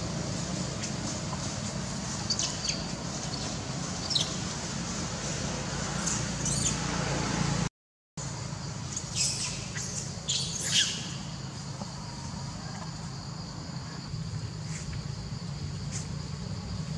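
Birds chirping now and then, short high falling calls, over a steady outdoor background hum, with a half-second gap of silence about eight seconds in.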